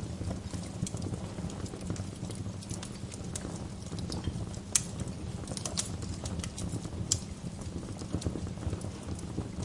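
Wood fire in a fireplace crackling, with irregular sharp pops of burning logs over a low, steady rumble of the flames; two louder pops come around the middle.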